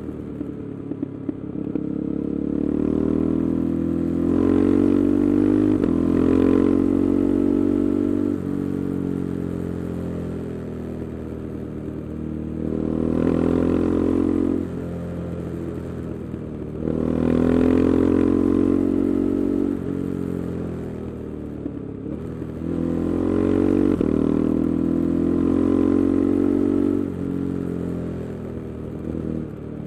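KTM 390 Adventure's single-cylinder engine, fitted with an Arrow exhaust and its resonator removed, ridden through the gears. The revs climb and drop sharply again and again as it shifts up, with several quieter stretches off the throttle between pulls.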